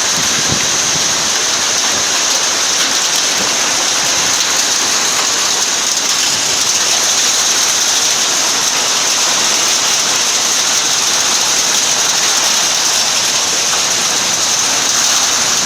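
Heavy rain from a tropical summer thunderstorm pouring down and drumming on surfaces: a loud, steady, dense hiss.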